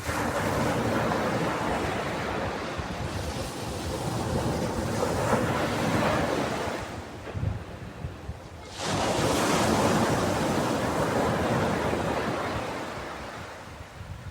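Ocean waves breaking on a beach and washing up the shore. One wave surges in at the start and dies away after about seven seconds; a second breaks sharply about nine seconds in and slowly recedes.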